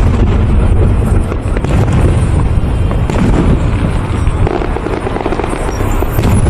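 Aerial fireworks bursting in a continuous loud barrage: a heavy rumble with sharper bangs scattered through it.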